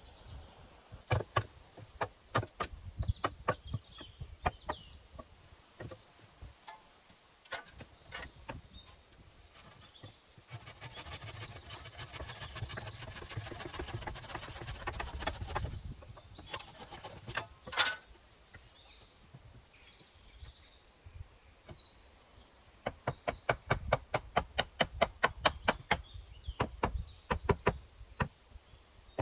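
Hand building work: scattered knocks and taps, a few seconds of steady rasping in the middle, then a fast run of knocks at about five a second near the end.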